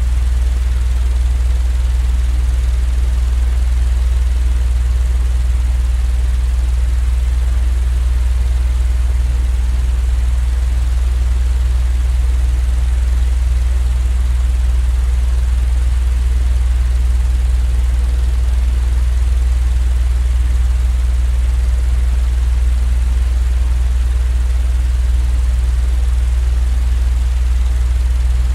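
Steady low mechanical drone with an even hiss over it, unchanging throughout: a continuous white-noise sleep sound.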